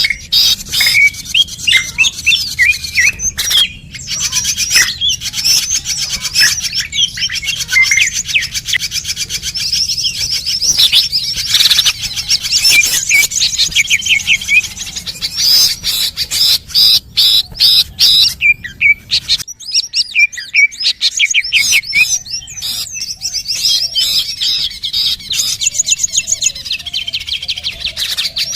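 Bird-lure recording of small birds chirping and twittering: rapid, high calls that overlap one another almost without a break, with a short lull about two-thirds of the way in.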